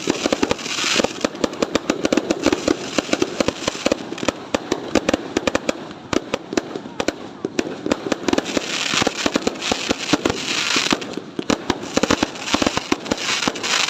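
Fireworks going off in a dense, continuous barrage of sharp bangs and crackles, many a second.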